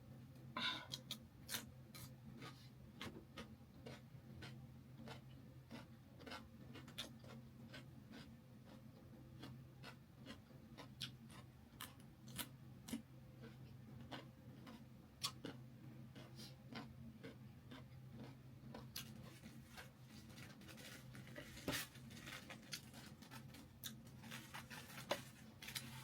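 Quiet close-up eating sounds: scattered soft clicks and smacks from chewing and handling chicken leg pieces, over a faint steady hum.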